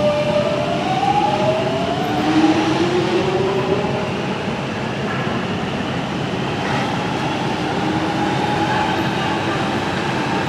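Docklands Light Railway train running, its electric traction motors whining upward in pitch over the first few seconds as it picks up speed, then running on steadily with wheel and track noise.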